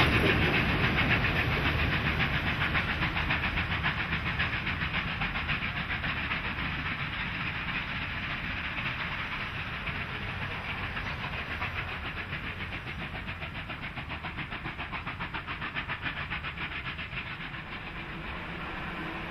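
Passenger carriages of a steam-hauled train rolling past and drawing away, wheels clicking over the rails in a quick steady rhythm with a hiss, fading steadily as the train recedes.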